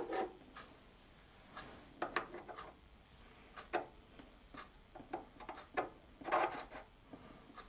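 Scattered light clicks and knocks of small metal workshop parts being handled and fitted by hand into a milling machine's collet block, with a short cluster of clatter about six and a half seconds in.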